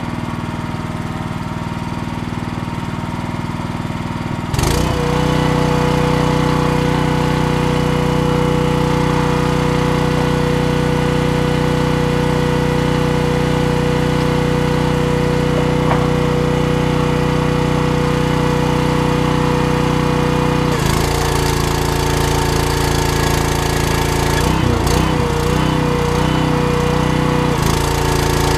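Arc welding: a steady, loud buzzing hum from the welder. It gets louder about four and a half seconds in, changes tone about twenty seconds in, and wavers unevenly near the end.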